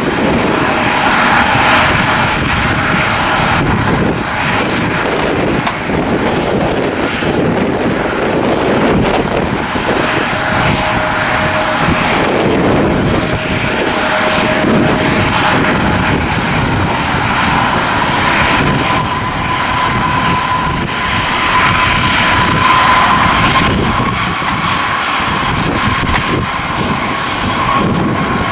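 Airplane engines running loud and steady, with a thin whining tone in the noise that shifts in pitch and holds near the end.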